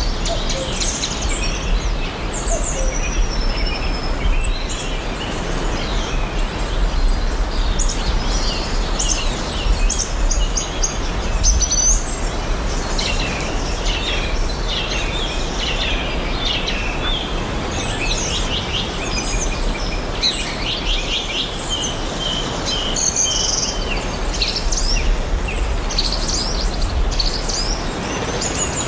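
Several songbirds chirping and singing, with many short overlapping calls and trills, over a steady background hiss and low rumble of outdoor ambience.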